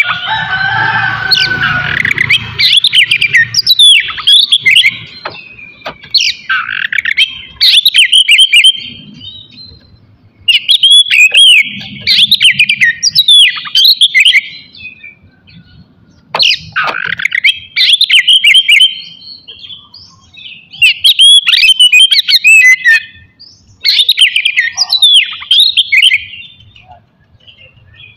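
Oriental magpie-robin (kacer) singing in loud bursts of rapid whistled and scratchy notes, each burst a few seconds long with short pauses between. A rougher, noisier call comes at the start.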